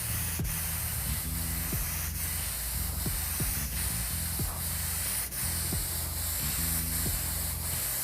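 Trigger-operated airbrush with a fan tip spraying paint with a steady hiss, laying down a coat of gray through a stencil.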